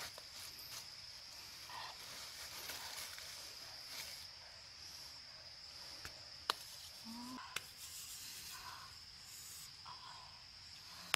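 Steady high-pitched insect drone, with two sharp clicks about a second apart midway and a few short chirping calls.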